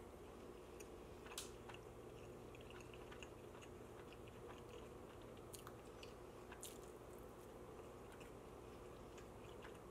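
Faint close-up chewing of a mouthful of pizza, with a few soft mouth clicks over a low steady hum.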